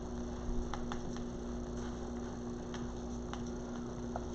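A steady electrical hum with two tones, with a few faint, scattered clicks and taps from handling the craft materials.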